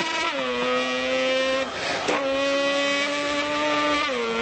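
A man imitating a high-revving car engine with his voice: a held, buzzing engine note at steady pitch. It dips in pitch near the start and again near the end, with a brief break for breath a little before the middle.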